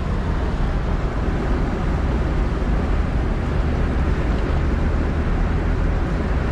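A four-wheel drive driving steadily: an even, low engine and drivetrain rumble with a broad hiss above it.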